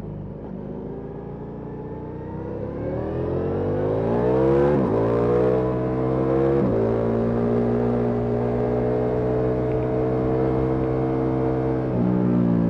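Ducati Multistrada V4S's V4 engine through an Akrapovic exhaust, heard from the rider: it slows, then accelerates hard with two upshifts about five and seven seconds in, holds a steady pitch, and shifts abruptly near the end.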